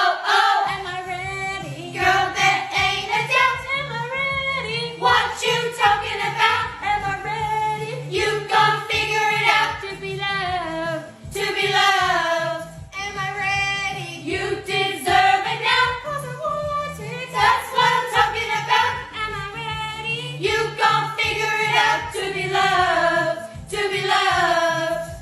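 Voices singing a choir-style a cappella song, several pitches moving together in harmony over a steady low drone.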